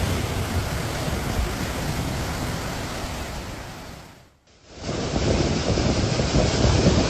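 Typhoon storm noise: strong wind mixed with surging water, a steady rushing sound. It fades away about four seconds in and starts again half a second later, slightly duller.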